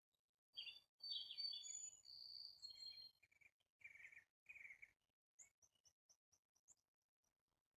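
Faint songbirds singing: several warbled, gliding phrases in the first five seconds, then a quick run of short high chirps.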